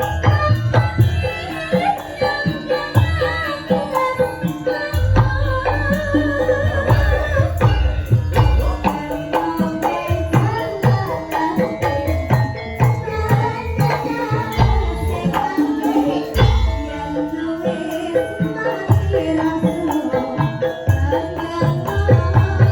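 Live Javanese band music: kendang-style hand drums playing a busy rhythm with rattling and jingling percussion, under a wavering melody line.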